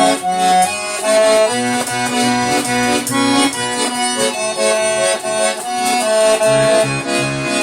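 Accordion playing the song's melody as an instrumental passage, with rhythmic bass-chord accompaniment.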